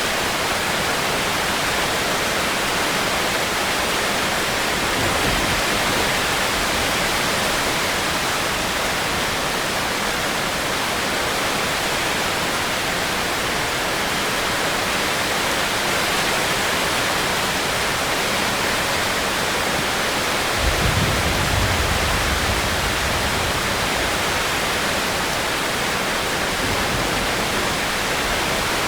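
Steady rainstorm, a dense, even hiss of falling rain. About two-thirds of the way through, a low rumble swells up for a couple of seconds, then fades back into the rain.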